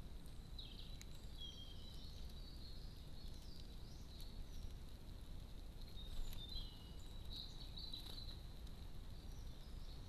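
Faint songbird song in short runs of high notes, one starting about half a second in and another about six and a half seconds in, over a steady low rumble of outdoor background noise.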